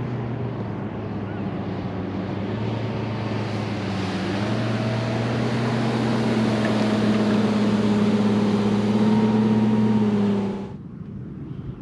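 A boat motor running steadily with a low hum, rising a little in pitch and getting louder about four seconds in, over rushing wind and water. It cuts off suddenly shortly before the end.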